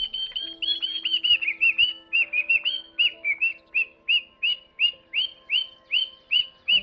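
A bird calling a rapid series of short, repeated chirps, about two to three a second, each note curving down in pitch, over soft background music.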